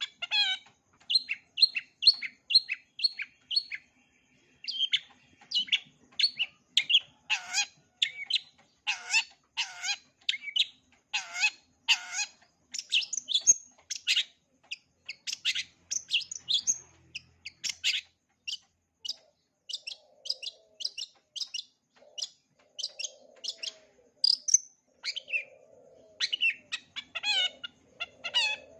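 Long-tailed shrike singing a rapid, unbroken string of short chirps and sweeping notes, its song full of phrases mimicked from other birds, with a few harsher, lower rasping notes near the end.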